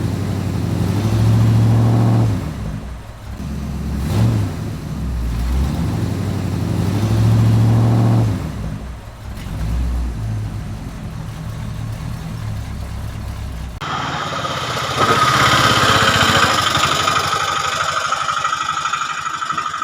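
A vehicle engine running and revving up in several swells. About fourteen seconds in it cuts off abruptly and gives way to a high, steady whine.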